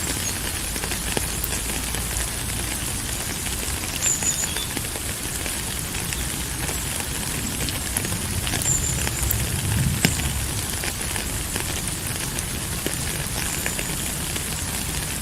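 Steady rain: an even hiss of many small drop impacts, with a low rumble underneath that swells briefly about ten seconds in.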